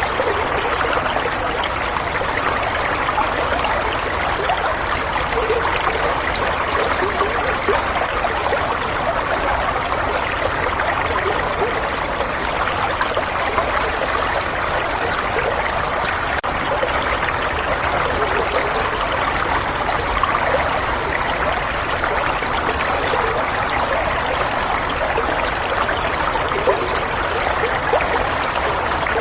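Running water, a steady trickling stream, unbroken and even.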